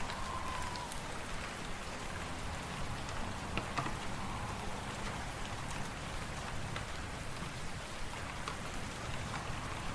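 Fireplace fire crackling: a steady hiss with scattered small pops, laid over wind. A faint whistling note sounds in the first second.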